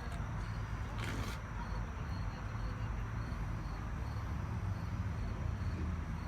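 Crickets chirping faintly in an even rhythm over a steady low rumble, with a brief rustle about a second in.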